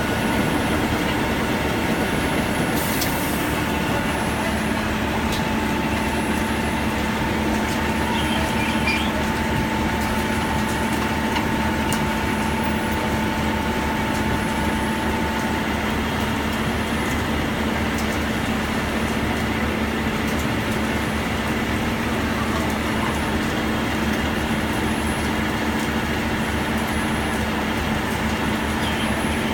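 Heavy machinery running steadily, a continuous mechanical noise with a low, even hum.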